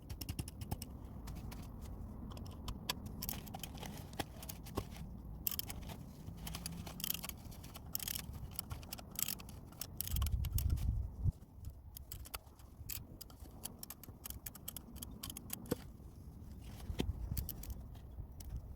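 Irregular clicks, taps and scrapes of tools and parts being handled during a car's oil change, over a low rumble that swells briefly about ten seconds in.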